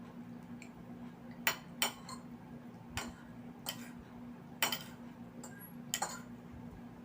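Metal eating utensils clinking against dishware during a meal, six or so sharp clinks at irregular intervals over a steady low hum.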